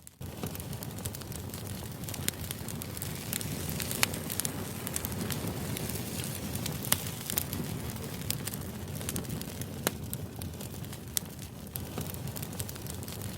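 Crackling fire ambience: a steady low rumble of burning with frequent sharp snaps and pops scattered through it, two of them standing out about four and seven seconds in.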